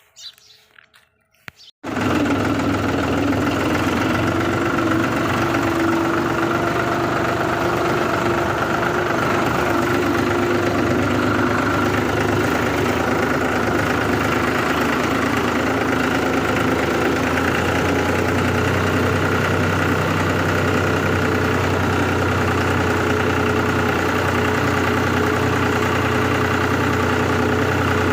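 New Holland tractor's diesel engine running steadily at idle. It comes in abruptly about two seconds in, after near quiet.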